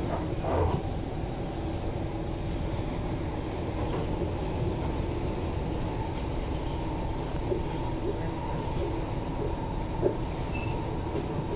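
SMRT C151 train in motion, heard from inside the carriage: a steady rumble of wheels on the rails and running gear, with a brief louder swell near the start and a short sharp click about ten seconds in.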